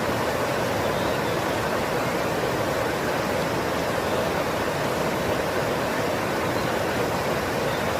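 Steady rush of flowing water, an even, unbroken noise with no changes.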